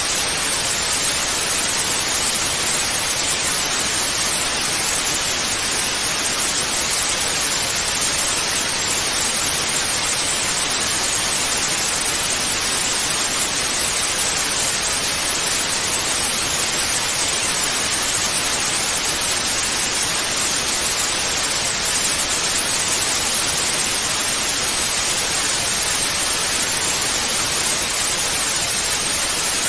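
TV static: a steady, even hiss of white noise that leans to the high end and does not change.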